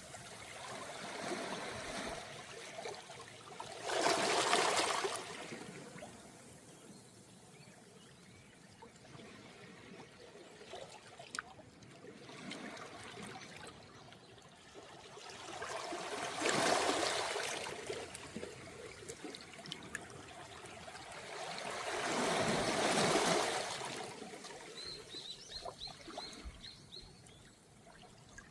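Small, calm waves washing up a round-pebble beach, with three louder wash-ups that rise and fall away between quieter stretches of trickling water. Near the end a short run of about six quick, high ticks.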